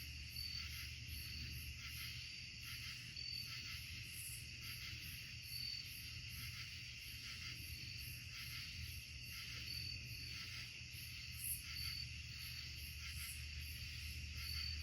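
Chorus of crickets and other insects trilling steadily, with a thin high note recurring every second or so and a faint steady low hum underneath.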